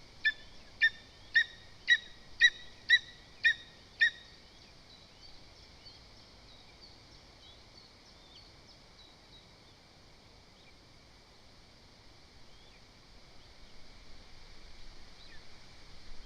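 Lesser spotted eagle calling: a series of eight short, loud, high calls, about two a second, ending about four seconds in. Faint small-bird chirps follow, and near the end low wind noise rises.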